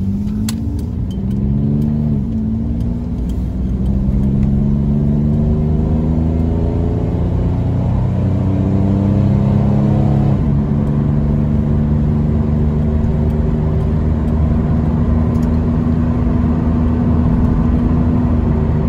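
1997 Chevrolet Camaro's 3.8-liter V6 heard from inside the cabin under hard acceleration. The engine pitch climbs, drops sharply at about 2 s and again at about 10 s as the car shifts up, then holds steady at highway cruise. This is a full-throttle test for the hesitation that the failing mass airflow sensor had caused; with the new sensor fitted, the driver says the fix did the trick.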